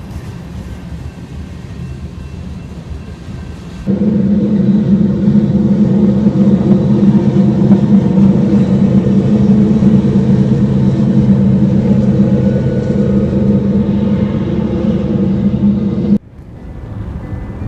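Motor vehicle running steadily with road noise. About four seconds in it turns much louder into a strong steady engine hum, which cuts back abruptly near the end.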